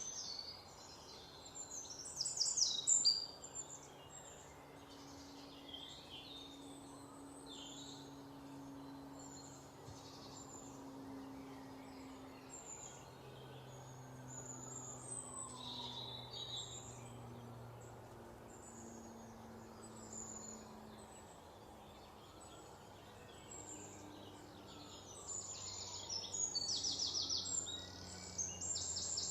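Several birds chirping and singing, with quick rapid-note trills about two seconds in and again near the end, over a faint steady low hum.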